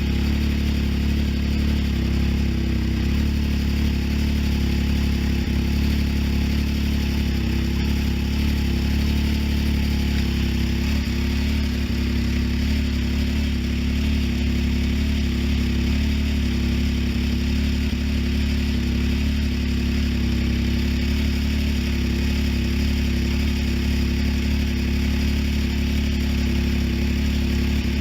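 Can-Am Maverick X3 side-by-side's three-cylinder engine idling steadily through its exhaust, with an even, unchanging note.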